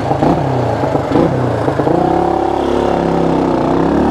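1974 Honda XL175's single-cylinder four-stroke engine running under load as the bike is ridden through snow. Its pitch swells up and down with the throttle, then rises and falls in one longer rev in the second half.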